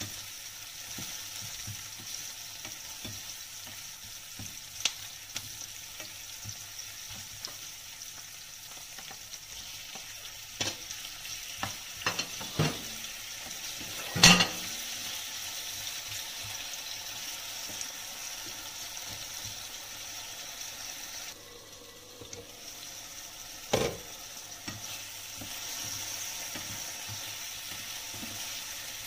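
Sliced onions sizzling in oil in a nonstick frying pan, stirred with a plastic spatula that clicks and scrapes against the pan. About halfway through, tomato wedges go into the pan with a louder clatter and burst of sizzling, and there is another sharp knock a few seconds before the end.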